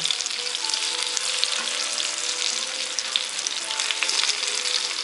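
Breaded chicken pieces shallow-frying in hot sunflower oil in a frying pan: a steady crackling sizzle. Light clicks and scrapes come from a fork turning the pieces in the pan.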